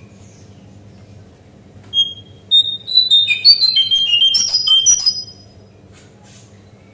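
Cingcoang coklat (brown-chested jungle flycatcher) calling: a single whistled note about two seconds in, then a loud, fast run of high whistled notes lasting about three seconds, over a steady low hum.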